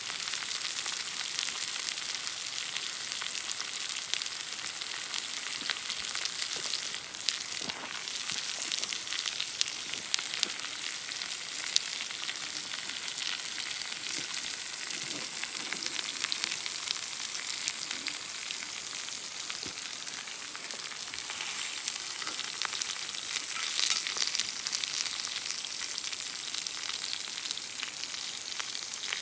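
Steak sizzling steadily as it cooks over a wood campfire, with scattered small pops and crackles.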